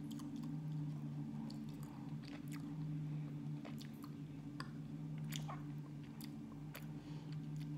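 Close-up chewing of soft baked sweet potato, with scattered small wet mouth clicks, over a steady low hum.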